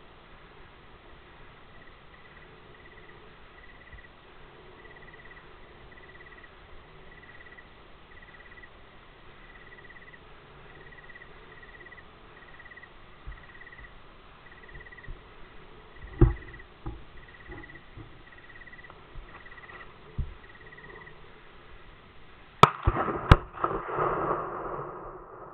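A rifle shot and an exploding Tannerite target: two sharp bangs less than a second apart near the end, followed by a rolling echo that dies away over about two seconds. Earlier there are a few duller thumps over a steady outdoor hiss.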